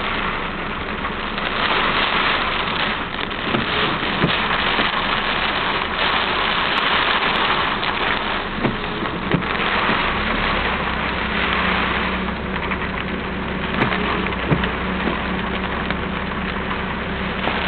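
Steady rushing noise of the flood-swollen Mino River in heavy rain. A low engine hum joins about ten seconds in.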